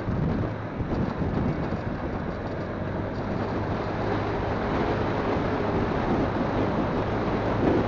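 Wind buffeting a phone's microphone on a moving motorcycle, with the engine's steady hum underneath.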